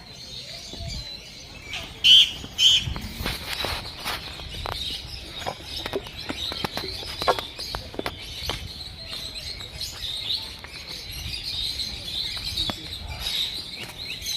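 Many caged birds chirping in an aviary, a continuous high twittering, with two louder, sharper calls about two seconds in and scattered short clicks throughout.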